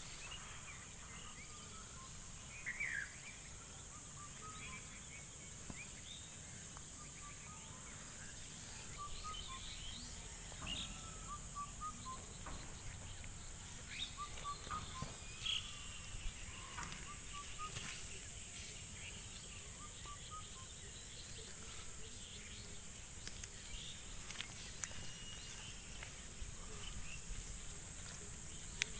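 Rural outdoor ambience: a steady high-pitched insect drone with short bird chirps scattered throughout.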